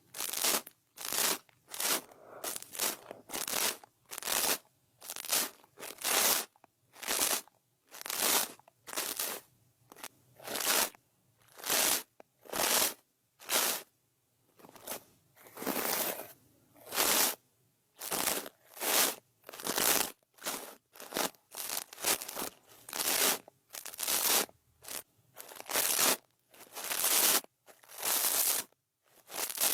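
ASMR brush stroking across the microphone in quick, scratchy sweeps, a little over one a second.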